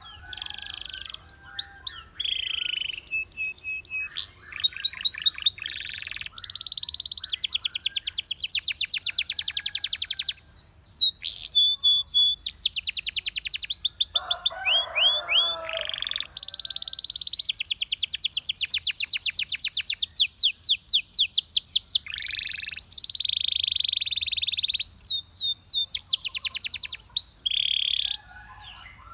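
Canary singing a long, continuous song: fast trills of rapidly repeated high notes, switching to a new trill every second or two, with a few brief gaps.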